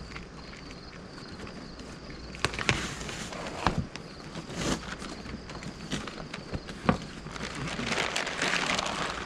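Cardboard box being opened by hand and its packaging handled: a steady rustle with scattered sharp knocks and clicks, and louder rustling near the end.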